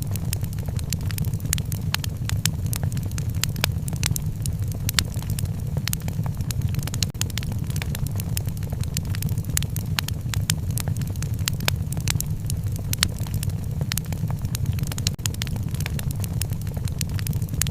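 Fireplace wood fire crackling: dense, irregular sharp pops and snaps over a steady low rumble.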